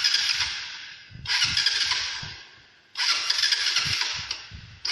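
BMP 150cc motorcycle engine cranked over in three attempts of about a second and a half each, with a fourth beginning at the end, each fading without the engine catching: a hard start, which the mechanic takes as a sign that the carburettor's idle adjustment needs setting.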